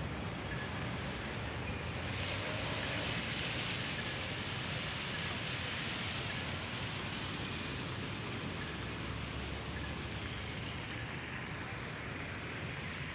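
Steady rushing of a river swollen by hours of heavy rain: a constant, even noise that swells slightly a couple of seconds in and then eases.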